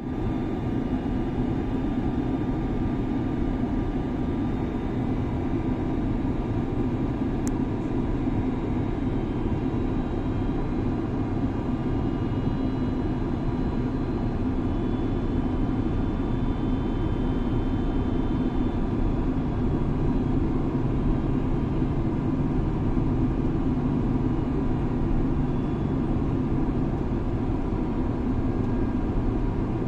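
Jet airliner on approach to land, with the steady drone of its engines and airflow heard from inside the cabin. A faint tick about seven and a half seconds in.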